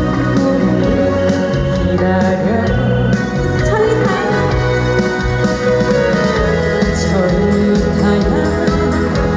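Amplified live band music with a singer's voice carrying the melody.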